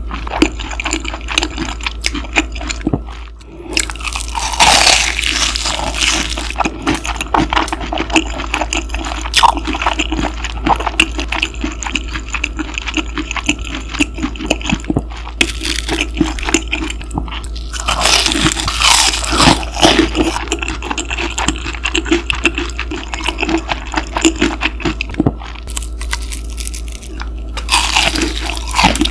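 Close-miked chewing of crispy breaded cheese pork cutlet, with small clicks throughout and three louder crunching spells, about five seconds in, around eighteen seconds and near the end. Under it runs a steady low machine hum.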